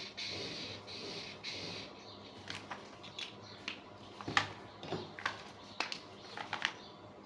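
Rhythmic scratching at about two strokes a second, then a run of sharp clicks and taps, the loudest about four seconds in.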